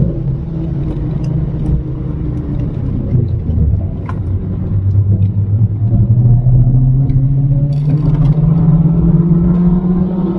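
Mini R56 John Cooper Works' turbocharged four-cylinder engine heard from inside the cabin at speed. Revs drop and stay low for a few seconds, then climb steadily as the car accelerates out of a bend.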